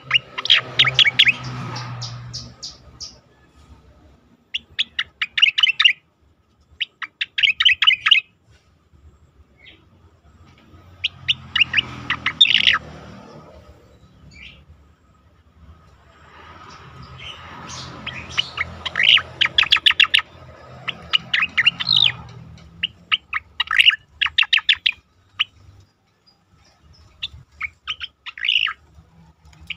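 A cica koreng (striated grassbird) singing: a series of rapid chattering phrases of about one to two seconds each, separated by short pauses.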